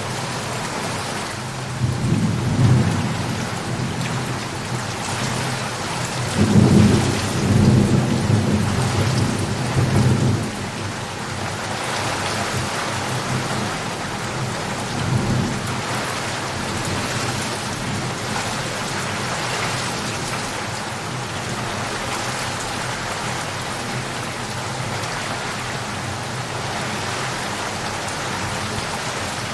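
Steady heavy rain with rolling thunder: a rumble about two seconds in, a longer, louder one from about six to ten seconds, and a weaker one near fifteen seconds, then rain alone.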